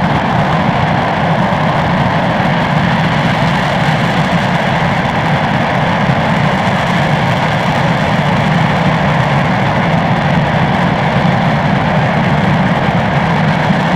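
RS-25 liquid-hydrogen/liquid-oxygen rocket engine hot-firing on a test stand: a loud, steady, unbroken rushing noise at constant thrust.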